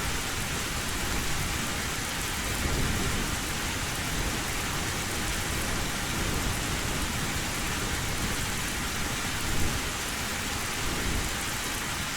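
Heavy rain drumming steadily on an old metal roof, a dense even hiss, with low rumbles of distant thunder swelling about three seconds in and again near the end.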